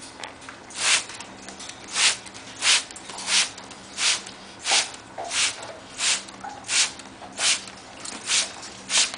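Hand-pump spray bottle squirting water in a steady run of short hissing bursts, about one every 0.7 seconds, a dozen in all.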